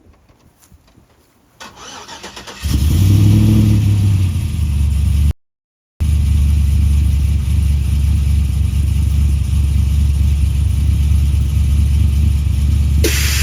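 A vehicle engine starts about two and a half seconds in and settles into a steady, loud low rumble. The sound cuts out completely for about half a second shortly after, and a hiss rises near the end.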